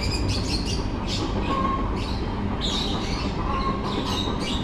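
Many birds chattering together, with repeated short, shrill chirps and squawks over a steady low rumble.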